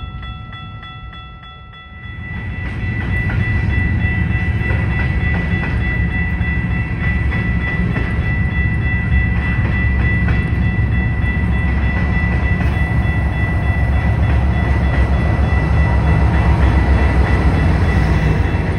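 Freight train of covered hopper cars rolling past close by: a heavy, steady rumble of wheels on rail with a constant high-pitched squeal over it. The sound is quieter for the first two seconds, then rises, and is loudest near the end as a diesel locomotive passes.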